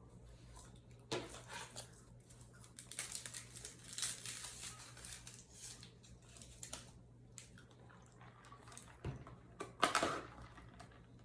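Close-up eating sounds: chewing and the crinkle of paper food packaging in short bursts, the loudest near the end, over a faint steady hum.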